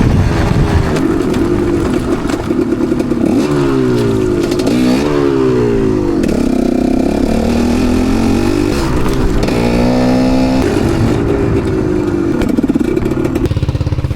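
Dirt bike engine revving up and down repeatedly as the throttle is worked, its pitch climbing and dropping through several gear changes, then settling to a steady low idle near the end.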